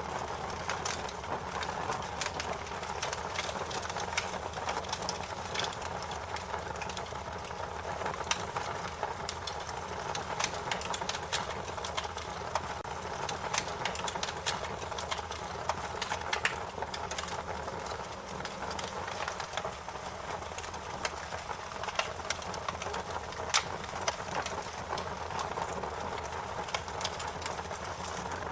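Wood fire crackling: a steady low hiss with frequent sharp pops and snaps, some louder than others, scattered irregularly.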